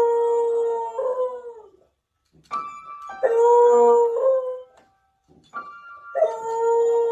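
A dog howling in three long drawn-out calls, a few seconds apart. Each howl is led in by a shorter, higher held note that sounds like a chime or keyboard tone.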